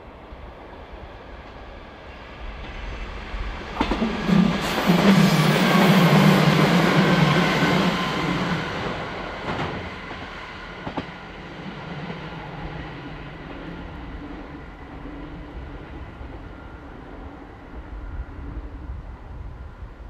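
Two-car KiHa 40 series diesel railcar set passing by on its way down a long grade: its sound builds, is loudest for about five seconds with a low diesel hum and a few sharp wheel clacks, then fades to a low rumble as it moves away.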